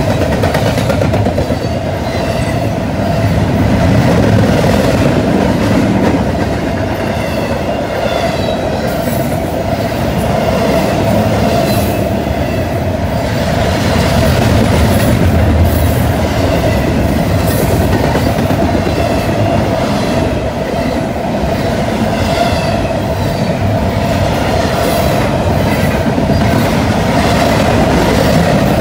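Double-stack intermodal container train's well cars rolling past close by: steel wheels clicking over the rail joints over a continuous rumble, with a steady ringing tone from the wheels on the rails.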